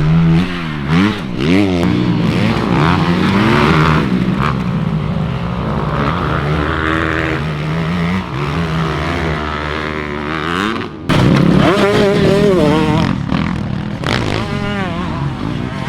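Two-stroke Husqvarna TC 125 motocross bike engine being ridden hard, its pitch rising and falling repeatedly with the throttle and gear changes. It briefly drops and comes back louder about eleven seconds in.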